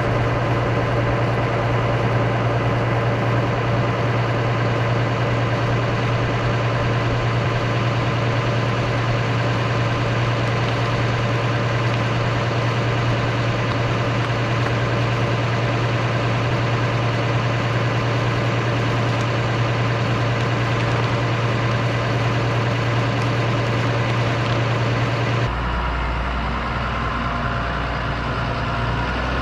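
Heavy farm machine's engine, a tractor or loader working at the feed mixer, running steadily at constant speed. About 25 seconds in its note drops lower and stays there.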